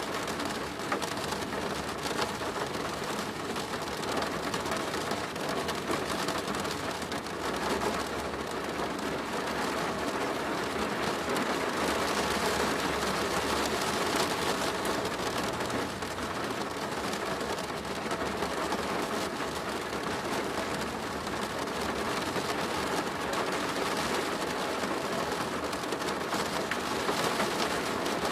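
Steady, heavy rain drumming on a plastic roof, a dense patter of many close drops.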